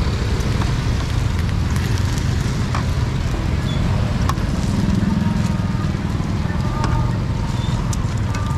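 Oil sizzling under round cakes frying on a large flat metal pan. A metal spatula clicks against the pan a few times. Steady motorbike traffic and market voices run underneath.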